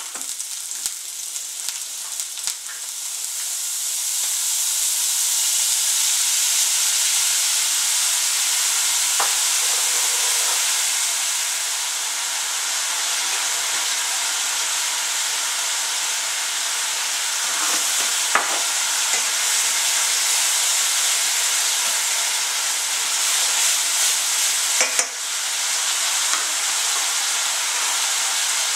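Sliced onion and carrot sticks frying in oil in a nonstick pan, with dark sauce bubbling among them: a steady sizzle that gets louder a few seconds in and then holds. A few sharp clicks come later on.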